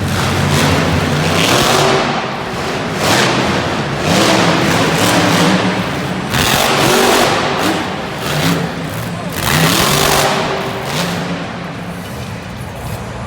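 Monster truck engine revving hard again and again, its pitch rising and falling with each throttle blip, loud and echoing in the arena.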